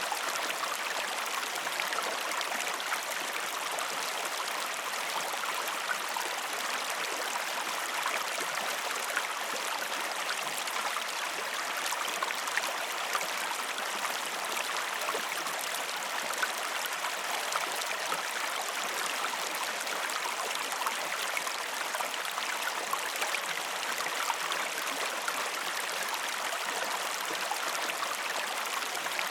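A river or stream flowing steadily, with a continuous rushing and fine splashing of running water.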